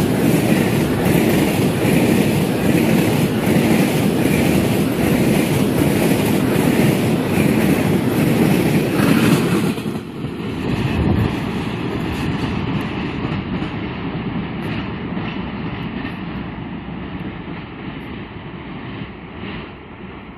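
Freight train of cereal hopper wagons rolling past, its wheels clacking in a regular rhythm about every two-thirds of a second. About halfway through the sound drops suddenly to a quieter rumble that fades as the train draws away.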